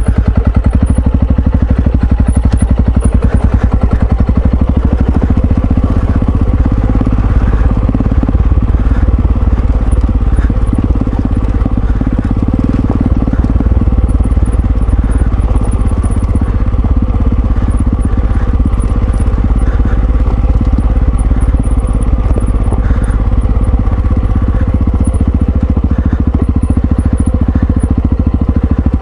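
Single-cylinder engine of a Yamaha XT660Z Ténéré motorcycle running steadily while riding, heard loud and close as a fast, even pulsing.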